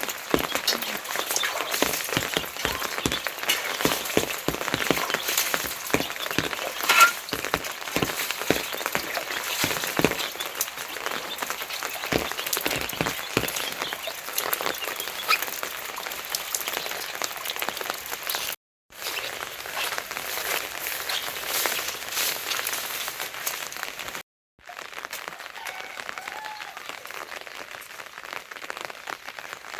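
Heavy rain falling, a dense crackle of drops striking a surface, thickest in the first half. The sound cuts out completely for a moment twice in the second half.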